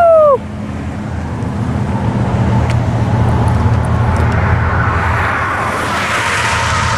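Diesel freight locomotives of a passing train led by a GE ES44AC: the air horn's blast ends just after the start, its pitch sagging as it cuts off, then the engines run with a steady low rumble while wheel and rail noise swells from about five seconds in.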